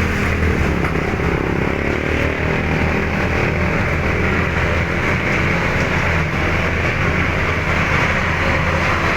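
Heavy road traffic passing close by: the steady low drone of large truck engines mixed with tyre and road noise.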